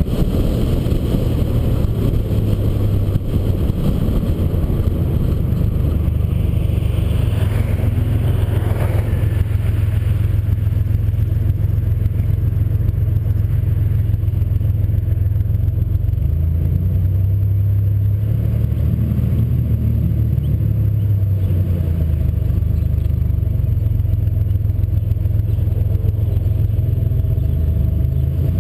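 Turbocharged 2007 Ford Mustang's 4.0 L V6 cruising, a steady low engine drone with road noise heard from inside the cabin. A brief rising whine comes about eight seconds in.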